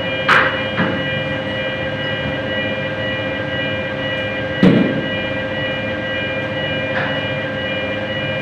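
Aluminium MIG welding arc from a Kemppi FastMig machine, a steady buzzing hum with fixed tones. A few sharp knocks or cracks come through, one just after the start and one about halfway.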